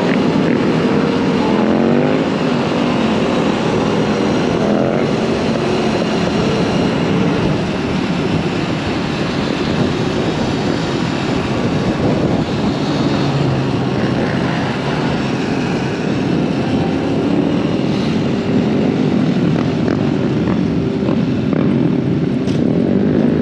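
Dirt bikes riding on a trail: engines revving up and down near the start and again at the end, over a steady loud rush of wind and motor noise.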